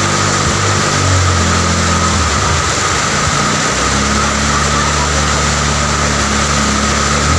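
Steady rain hiss with the low hum of a motor vehicle engine on the road, heard in the first two seconds and again from about four seconds in until near the end.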